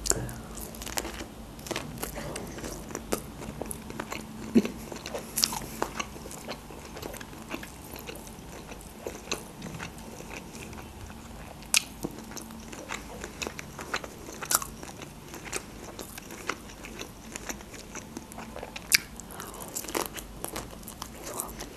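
Close-miked mukbang eating sounds: a person chewing shellfish meat, with scattered short mouth clicks and a few sharper snaps.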